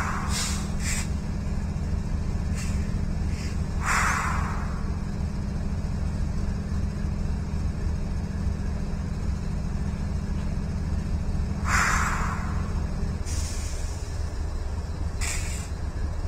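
Steady low rumble and hum of a distant train on a railroad line, with a few short hisses; the hum drops away about three seconds before the end.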